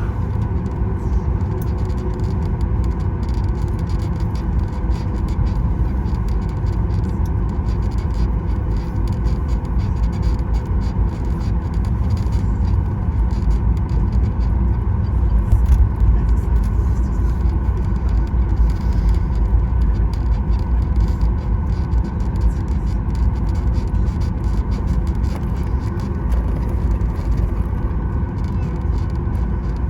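Cabin noise of a Boeing 737 MAX 9 taxiing: a steady low rumble of the CFM LEAP-1B engines at idle and the wheels rolling over the taxiway, with a faint steady whine and small ticks and rattles from the cabin.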